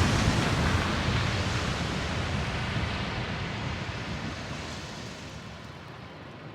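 Boom sound effect: the long rumbling tail of a sudden blast, a dense roar fading steadily away over several seconds.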